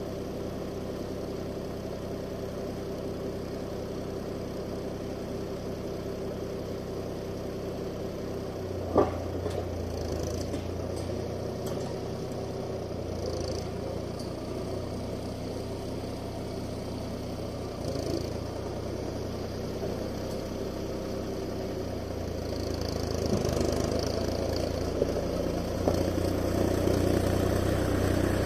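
Steyr 540 tractor's diesel engine running steadily, with a sharp knock about nine seconds in and the engine getting louder near the end.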